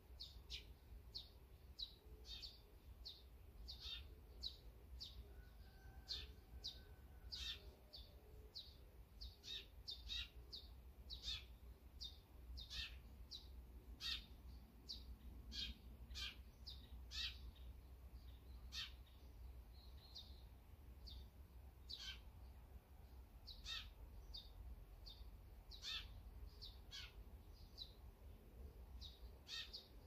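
Small songbirds chirping: many short, high chirps, about two a second, with no let-up, over a low steady rumble.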